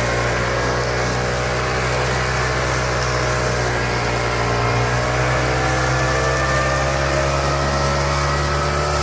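Walk-behind tractor's engine running steadily at an even speed.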